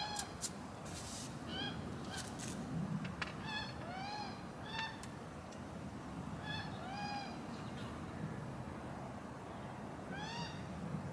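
A bird calling: short honking calls, each rising then falling in pitch, repeated irregularly in ones and pairs, about eight in all.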